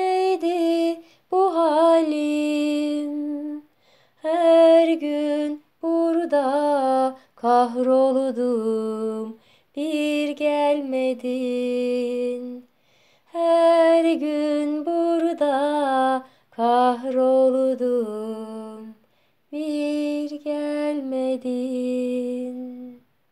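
A woman singing a slow, unaccompanied melody, phrase by phrase with short silent breaks between phrases; the last phrase ends just before the end.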